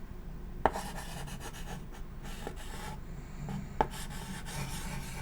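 Chalk writing on an old chalkboard: scratchy rubbing strokes, with two sharp taps of the chalk on the board, one under a second in and one just before four seconds.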